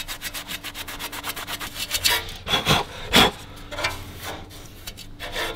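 Hand scrubbing and scraping of metal on an aluminium wheel carrier, rapid rasping strokes that clean off oxidation around the wheel-bearing seat. About two seconds in, the scraping gives way to a few separate knocks of metal parts.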